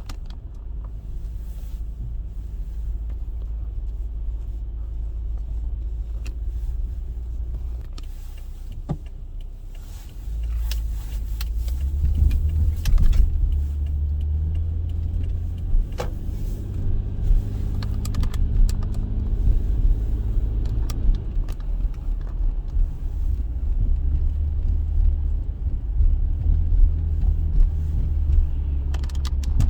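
Inside a slowly moving car: a steady low rumble of engine and road noise that grows louder about ten seconds in, with a few scattered clicks and knocks.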